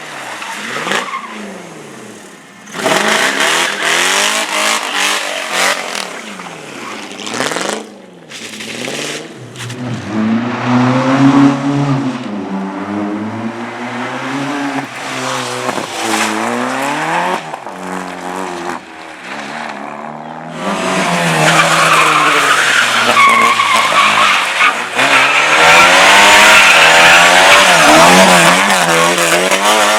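Competition cars driven hard: engines revving up and down repeatedly through gear changes and throttle lifts, with tyres squealing and skidding. The squeal and engine noise build up and are loudest in the last third.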